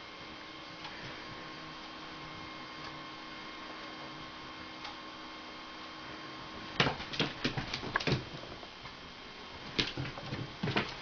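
A steady electrical hum. About two-thirds of the way in it gives way to two flurries of quick light taps and scrabbles, like a kitten's paws and claws skittering on a hard floor as it chases a flashlight spot.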